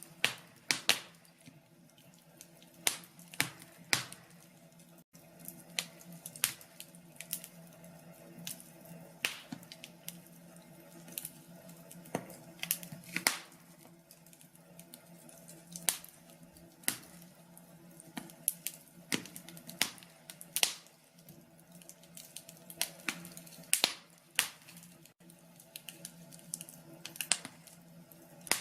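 Wood fire crackling in a fireplace: irregular sharp snaps and pops, about one or two a second, over a faint steady background.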